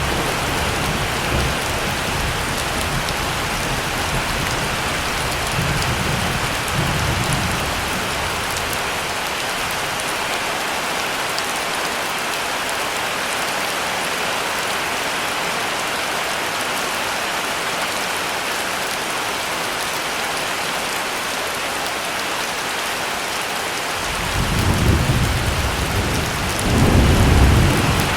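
Heavy rain falling steadily, with low thunder rumbling through the first several seconds and again near the end, the loudest roll coming just before the end.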